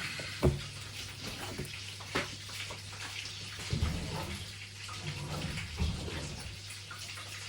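A cardboard product box being handled while someone tries to open it: scattered knocks, with rustling and scraping of the packaging, over a steady low hum.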